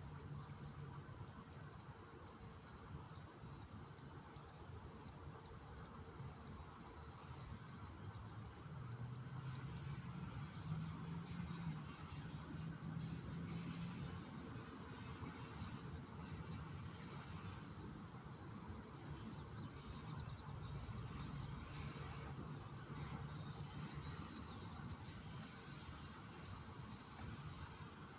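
Birds giving short, high-pitched chirps, several a second and in bunches, over a steady low rumble.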